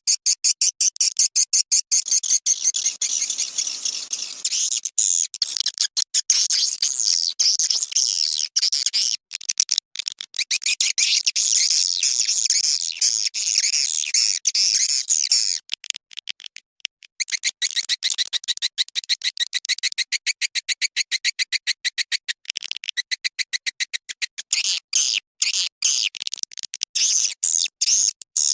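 Swiftlets twittering in a dense, rapid stream of high chirps. This is a swiftlet lure-call recording of the kind played to draw the birds into a nest house. The chirping thins briefly just past the middle.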